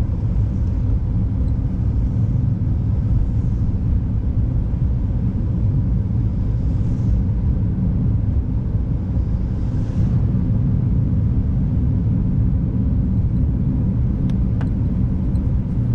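Steady low rumble of a car driving on a winter road, with tyre and road noise. Faint hissing swells come and go a few times, and there are a couple of sharp clicks near the end.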